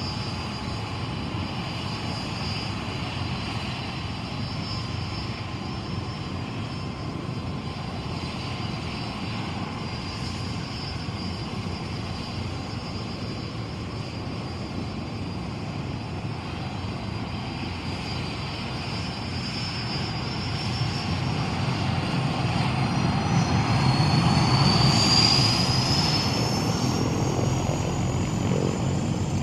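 Bell UH-1 "Huey" helicopter running, a steady engine and rotor sound with a high turbine whine. From about 20 seconds in it grows louder, peaking about 25 seconds in, as the whine rises in pitch.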